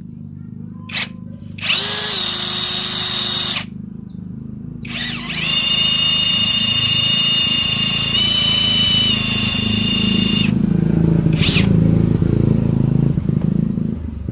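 Electric drill boring out a snapped motorcycle exhaust bolt, running in bursts: a short two-second run, then a longer run of about five seconds with small shifts in pitch as it bites, and a brief burst near the end.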